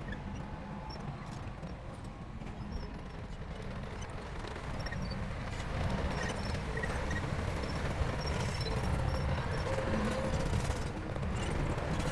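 Bulldozer's diesel engine running under load, a steady low rumble with clanking and squeaking from its crawler tracks; it grows louder about halfway through.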